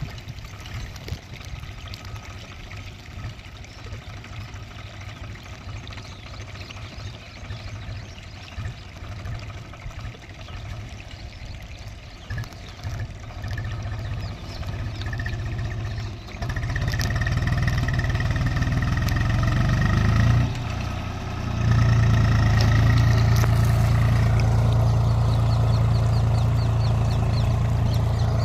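Tractor engine running, fairly faint at first, then much louder from about sixteen seconds in; it drops briefly a few seconds later before running loud and steady again.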